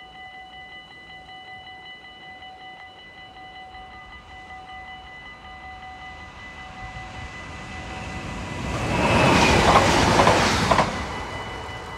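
Level-crossing bell ringing steadily while a passenger train approaches and passes. The train noise swells, covers the bell at its loudest about nine seconds in, and drops away after about two seconds.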